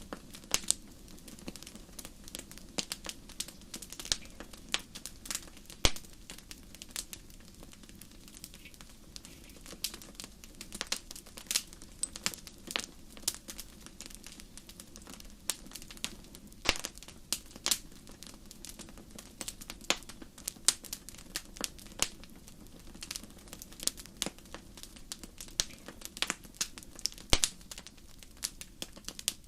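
Wood fire in a fireplace crackling: irregular sharp pops and snaps, some louder than others, over a steady low rumble of the flames.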